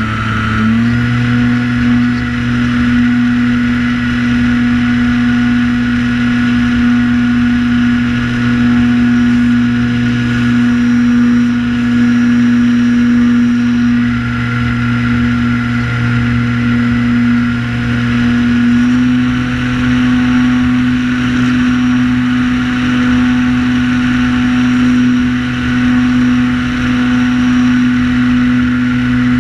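Multirotor drone's propellers and motors buzzing steadily in flight, one even pitched drone tone that rises a little in the first second and then holds nearly constant.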